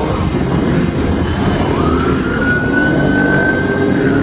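Motorbike engines running, and from about halfway through a police siren wails, one slowly rising tone that starts to fall near the end.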